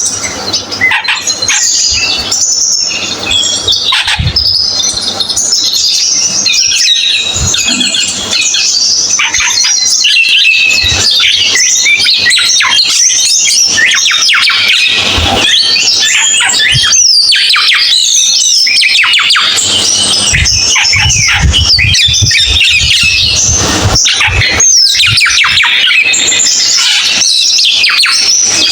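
Cucak keling songbird in full song: a loud, unbroken stream of fast, varied high chattering notes.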